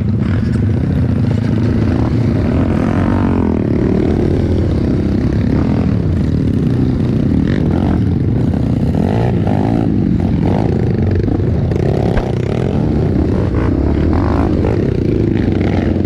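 Off-road trail motorcycle engine running and revving, its pitch rising and falling again and again, with clattering and knocks throughout.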